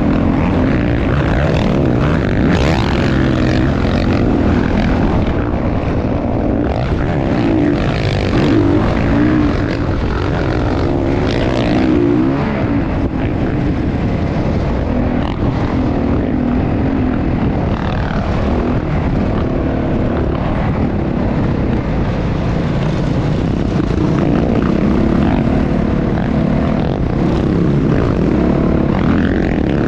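Motocross dirt bike engine running continuously, its pitch rising and falling as the throttle is worked.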